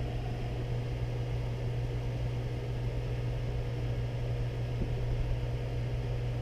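Steady low hum with a faint higher tone above it, holding unchanged throughout.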